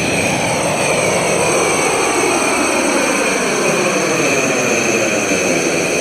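Sci-fi jet-pack thrust sound effect: a steady, loud rushing noise with a high whine that slowly falls in pitch.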